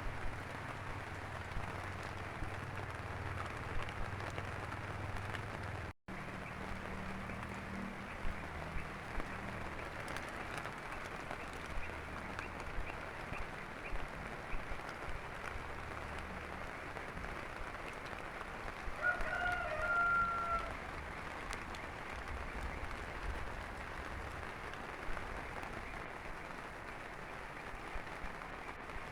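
Steady rain with a low hum underneath; about two-thirds of the way through, a rooster crows once, a call of about a second and a half.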